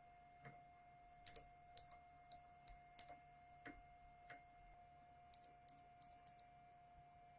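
Mechanical keyboard keys with Outemu switches being pressed: a run of five sharp clicks about half a second apart, two softer taps, then four more quick clicks. A faint steady tone sits underneath.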